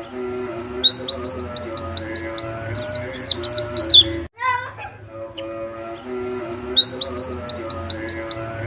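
White-eye (pleci) singing its 'wit-wit' lovebird-style phrase: a quick run of high, falling chirps, about eight a second, then louder sweeping notes. The phrase stops briefly about four seconds in and the same phrase repeats.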